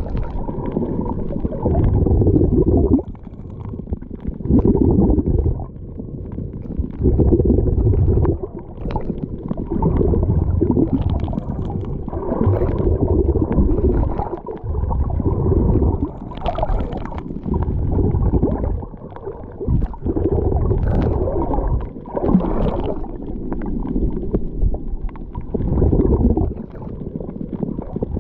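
Muffled low rumble of sea water and wind buffeting the microphone, coming in surges every two to three seconds.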